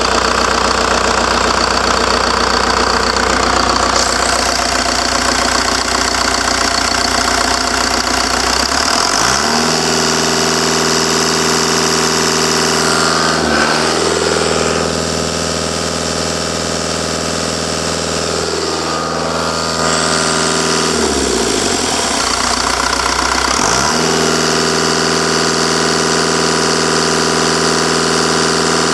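Cummins 4BT four-cylinder turbodiesel engine running. It idles at first, is revved up about a third of the way in and held at a higher steady speed, drops back toward idle about two-thirds of the way through, then is raised again.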